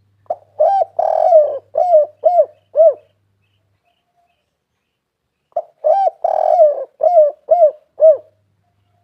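Spotted dove (tekukur) singing its cooing song twice. Each phrase runs about two and a half seconds: a short note, a coo, a longer rolling coo, then three short coos. The second phrase starts about five and a half seconds in.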